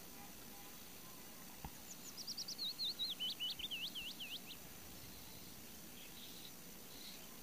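A songbird sings one phrase of about two and a half seconds: a quick series of high notes stepping down in pitch, then a run of sharp, hooked chirps, over a faint steady outdoor hiss.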